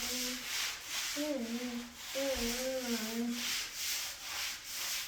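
A rhythmic rubbing or scraping noise about twice a second, with a wordless voice humming or vocalizing in wavering pitches during the first three seconds or so.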